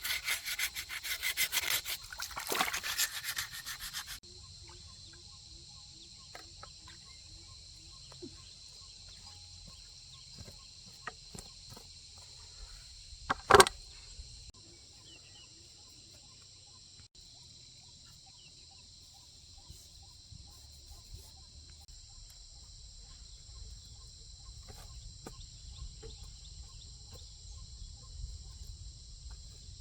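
Rapid back-and-forth rubbing strokes, like hand sanding a part, stop abruptly about four seconds in. After that a steady, high-pitched insect drone carries on, with one sharp knock around the middle.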